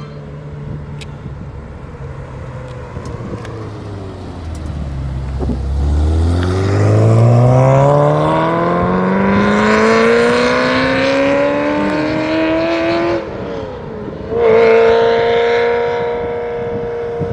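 Ferrari engine accelerating hard: after a lower note that sinks in pitch, the exhaust note climbs steadily for about seven seconds, then cuts off sharply. About a second later it comes back in at a high, steady pitch.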